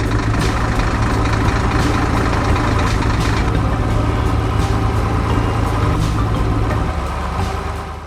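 Vehicle engine sound effect running steadily at a low idle-like rumble, fading out just before the end.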